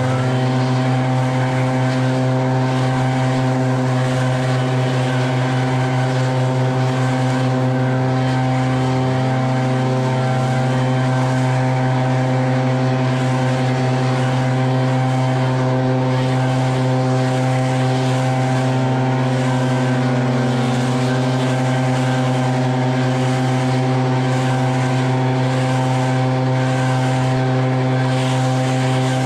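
Echo backpack leaf blower's two-stroke engine running at full throttle, a loud steady drone with a brief dip in pitch about nine seconds in and again around twenty seconds.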